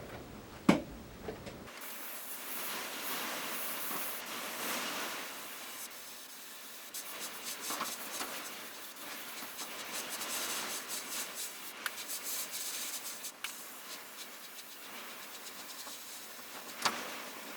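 Airbrush spraying paint: a hiss of air that swells and fades irregularly as it sprays, with a sharp click about a second in and another near the end.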